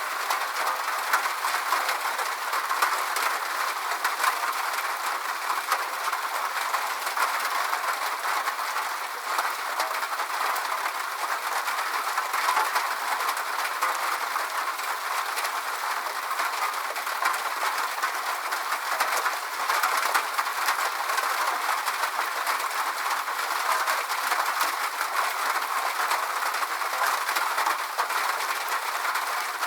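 Steady rain: an even hiss of many small drops, unchanging throughout.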